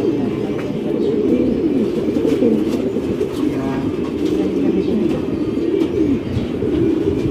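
Many domestic pigeons cooing together in a loft, a steady chorus of overlapping low coos.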